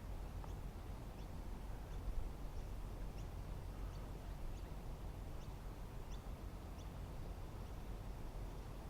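Faint, short high bird chirps, scattered a few times a second apart, over a steady low outdoor rumble.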